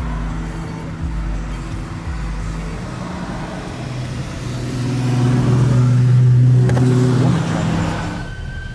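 Sports car engines driving past, growing louder to a peak about six seconds in and then fading away. A police siren starts to wail near the end.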